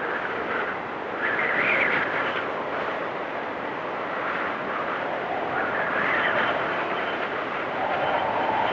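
Blizzard wind blowing in gusts: a steady rush that swells louder about a second in and again around six seconds.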